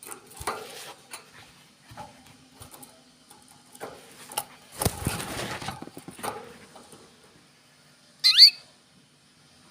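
Small birds: scattered rustling and tapping, then one loud, short chirp that sweeps up in pitch about eight seconds in.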